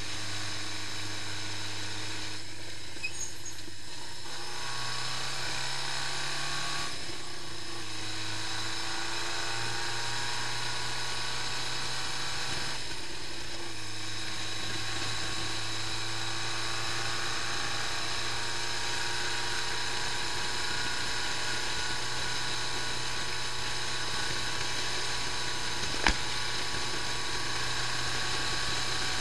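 Honda CB550 Four's air-cooled inline-four engine running steadily with a mechanical clatter, its speed drifting gently up and down a few times. A single sharp click about 26 seconds in.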